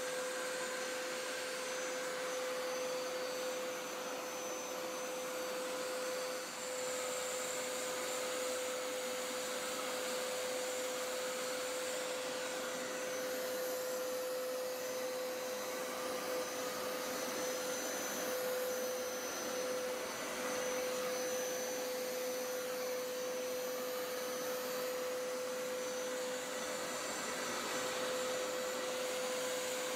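Hoover Power Scrub Elite Pet upright carpet cleaner running steadily on the carpet: a loud, even suction drone with a strong steady hum and a fainter whine that slowly rises and falls in pitch.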